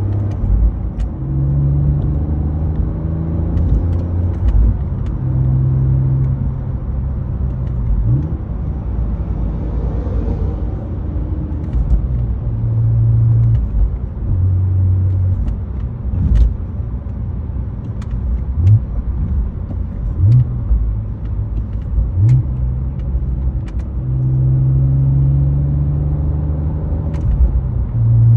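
2004 BMW 330i ZHP's straight-six engine pulling the car along on the road, holding steady notes at different pitches. Several short rising revs are heard through the middle as the car accelerates through the gears, over a low road rumble.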